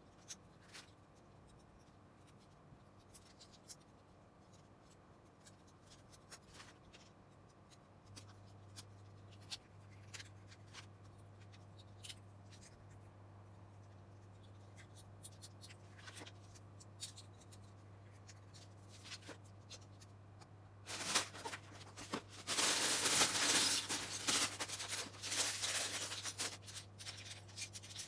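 LEGO pieces being handled and fitted together: scattered light plastic clicks, then near the end several seconds of dense rattling, as of loose bricks being sifted through.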